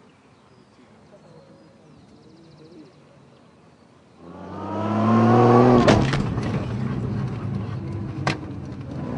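Car engine revving up loudly about four seconds in, its pitch rising and then easing as the car pulls away. A sharp knock comes near the end.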